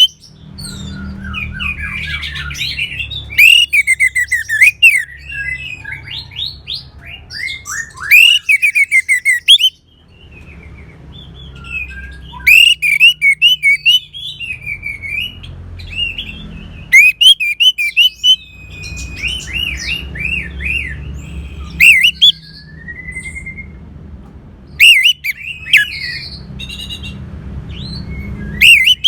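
Orange-headed thrush singing: repeated phrases of rapid, varied whistled and warbled notes, separated by short pauses. A low background rumble comes and goes under some of the phrases.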